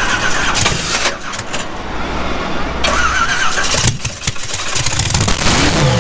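Loud drag-racing car engine starting up and running, with a rise in revs near the end.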